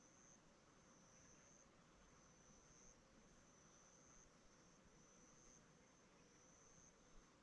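An insect trilling faintly outside: a thin, high trill lasting about a second, repeated steadily about every 1.3 seconds.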